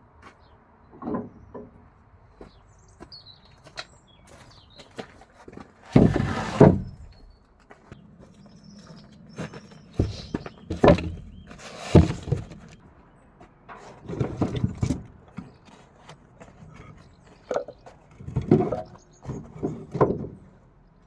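Firewood and cut branches being gathered and dropped: irregular thuds, knocks and rustling. The loudest clatters come about six seconds in, twice around ten to twelve seconds in, and again in the last few seconds.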